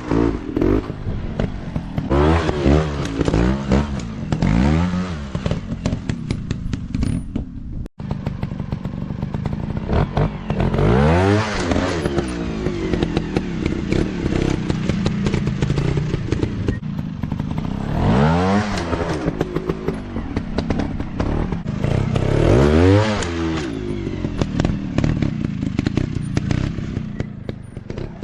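Dirt bike engines revving up and down over and over, each rev climbing and falling in pitch as the bikes ride. The sound breaks off abruptly for a moment about eight seconds in, then carries on.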